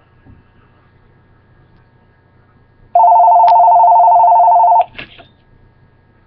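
Electronic telephone ring: a two-tone warbling trill, loud and steady, lasting about two seconds about halfway in, then cutting off.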